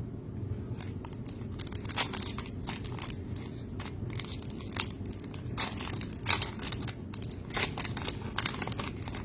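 Plastic wrapper of a trading card pack crinkling and tearing as it is opened and the cards handled: a run of irregular sharp crackles over a low steady hum.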